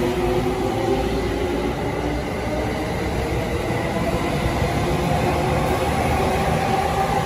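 Electric commuter train running slowly past along a station platform: steady rumble of wheels on the rails, with an even motor whine.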